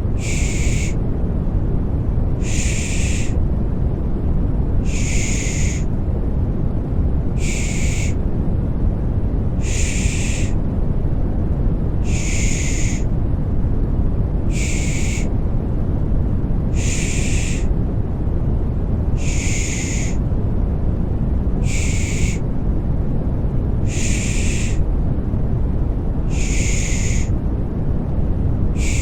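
Rhythmic 'shh' shushing to soothe a baby to sleep, each shush about a second long and repeating evenly every two and a half seconds or so. It plays over a steady, deep rushing white noise.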